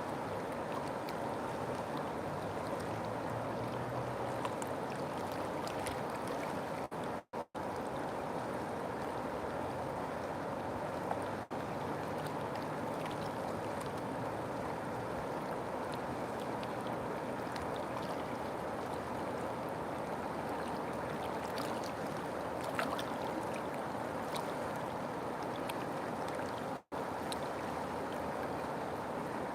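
River water flowing in a steady rushing stream. The sound cuts out for a split second about seven seconds in and again near the end.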